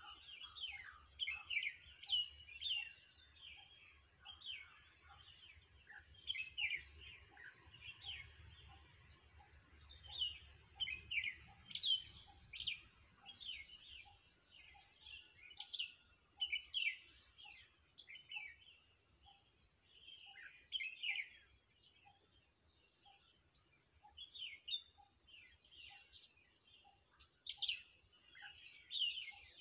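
Birds chirping in many short, quick, falling notes, in clusters all through, against a faint high steady background tone.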